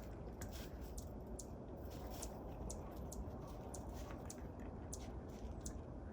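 A deer eating birdseed at a feeder: faint, irregular sharp clicks and crunches of seed.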